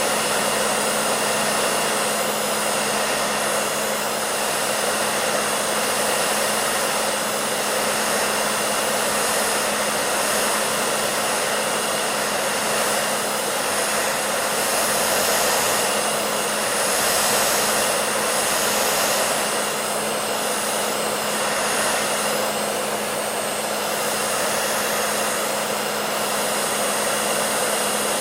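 Hair dryer running steadily: an even rushing of air with a low steady hum from the motor.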